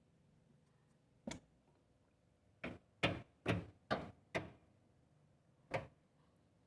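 Seven sharp knocks on a washing machine: a single knock about a second in, a quick run of five roughly half a second apart in the middle, and one more near the end.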